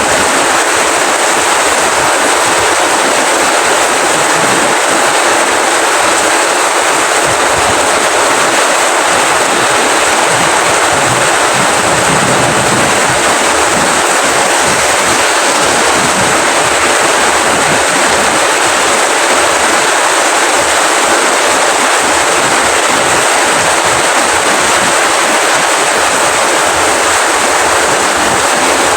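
Steady rain falling, a constant even hiss with no separate drops or thunder standing out.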